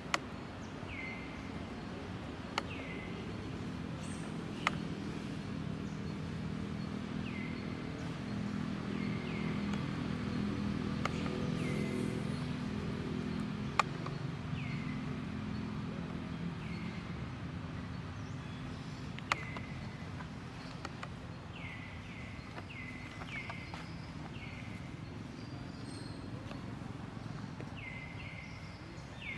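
Short high chirping calls, each falling in pitch, repeated irregularly and sometimes in quick runs of three or four. Under them is a low steady hum that swells in the middle, with a few sharp clicks.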